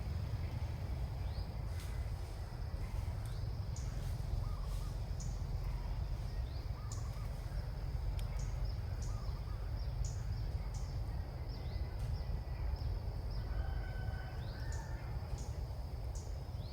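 Sooty-headed bulbuls calling: short, sharp, rising high chirps repeated irregularly, several to a second at times, over a constant low rumble and a steady high thin tone.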